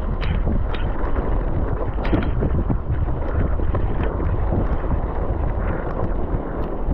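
Loud steady low rumble and rushing noise with wind buffeting the microphone, broken by scattered short knocks.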